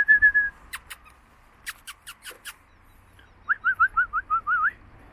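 A bird chirping: a quick run of short whistled notes, a few sharp clicks, then a series of about seven quick rising whistles in the second half.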